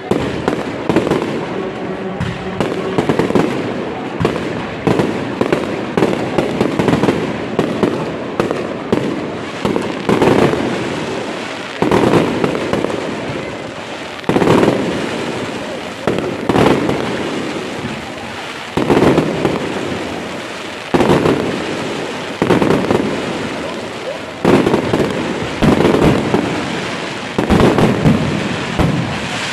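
Fireworks display: a dense run of rapid bangs and crackling, then heavier single bangs about every two seconds, each fading out after the blast.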